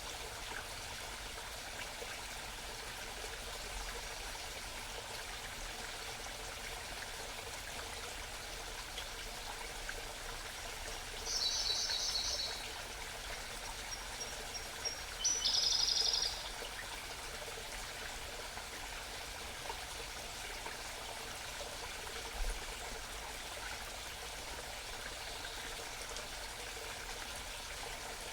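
A small mountain stream babbling steadily. A songbird sings two short, rapid high-pitched trills over it, about 11 and 15 seconds in.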